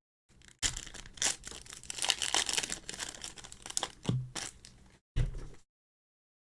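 A foil Pokémon booster pack wrapper being torn open and crinkled by hand, a dense crackling rustle that stops abruptly about five and a half seconds in.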